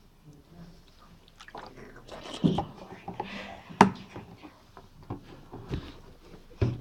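A person making mouth noises: irregular wet clicks and smacks with a short breathy hiss, the sharpest click a little past the middle and another near the end.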